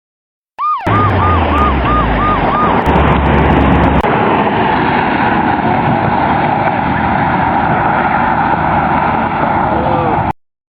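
Police car siren giving a quick run of short yelps, about three a second, then loud steady vehicle noise that cuts off abruptly.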